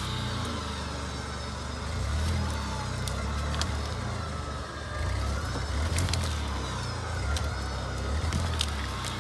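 Suzuki Escudo's engine running under varying load, its low rumble swelling and easing, with a faint whine rising and falling and scattered sharp cracks and clicks.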